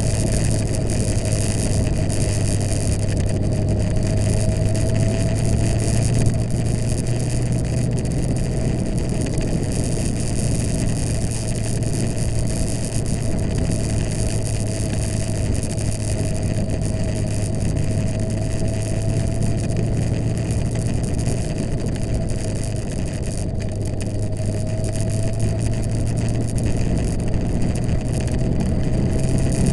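Suzuki GSX-R1000 K7's inline four-cylinder engine running steadily at low revs during a slow ride. Its note sags a little midway and rises slightly near the end.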